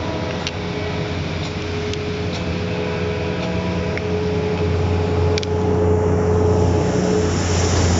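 Diesel locomotive running steadily: a loud low engine drone with a steady higher tone over it and a few light clicks.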